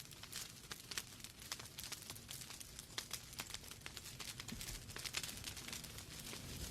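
Wood fire burning in a fireplace: logs crackling with irregular sharp pops and snaps over a soft hiss.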